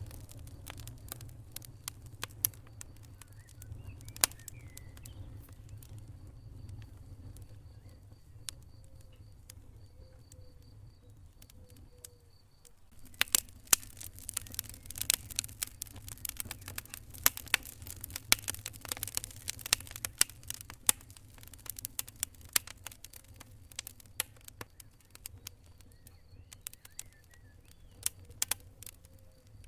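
Wood fire crackling in a fireplace: irregular sharp pops and snaps over a low steady rumble of flames. After a brief lull about twelve seconds in, the pops come thicker and louder.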